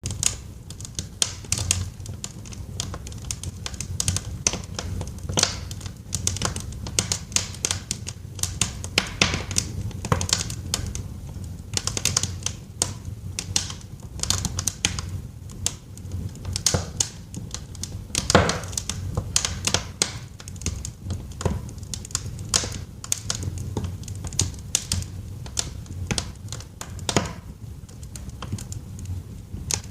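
Wood fire burning in a fireplace: logs crackling with frequent, irregular sharp pops over a low, steady rumble of the flames, with one louder pop about eighteen seconds in.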